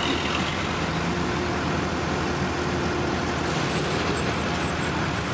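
Engines of heavy road-construction machinery running steadily.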